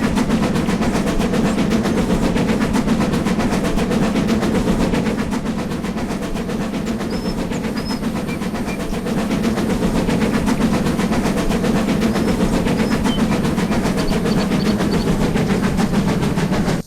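Locomotive No.20 hauling a small passenger train past, a steady running sound with a fast rapid beat over a low hum; it eases a little in the middle and grows louder again about nine seconds in.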